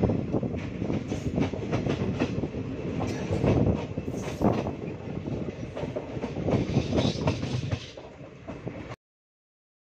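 Express passenger train running on the rails, heard from aboard, with the wheels clacking irregularly over rail joints and points over a steady rumble. The sound eases slightly, then cuts off suddenly near the end.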